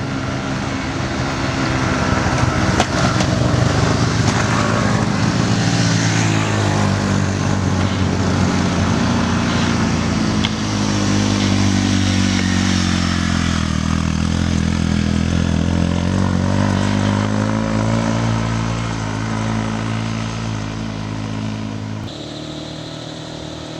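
A motor vehicle's engine running hard on a steep uphill, its pitch sliding slowly up and down. The sound changes abruptly near the end.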